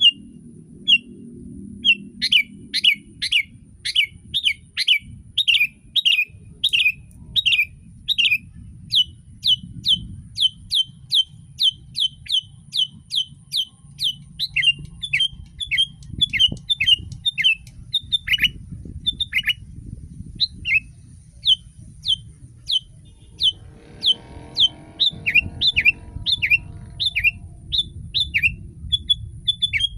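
Sooty-headed bulbul calling: a long run of short, sharp downward-sliding notes, about two a second, kept up without a break.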